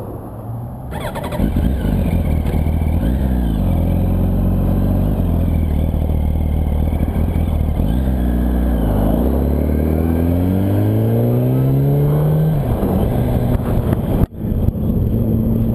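Yamaha R1's inline-four engine under way, its pitch dipping at gear changes about three and eight seconds in, then climbing steadily as it pulls hard before another shift about two-thirds of the way through. Wind rushes past the microphone throughout, and the sound drops out for an instant near the end.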